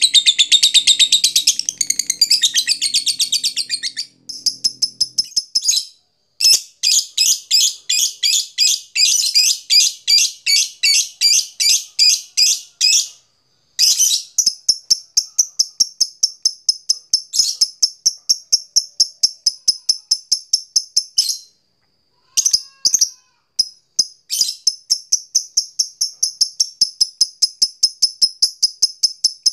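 Lovebird chattering in long, fast runs of repeated high-pitched notes (the long 'ngekek' call), broken by a few short pauses.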